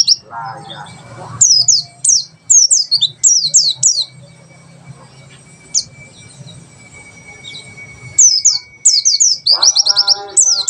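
A white-eye (pleci) singing rapid 'tembakan' runs of high, quickly falling whistled notes, fired in quick strings. The runs come in bursts in the first few seconds, pause for a few seconds with one lone note, and start again near the end. Near the end a lower, stuttering chatter joins the runs.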